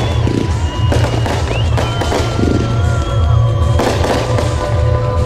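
Fireworks display: several sharp bangs and crackles of bursting shells, with short whistles that rise in pitch, over loud music with a heavy, steady bass.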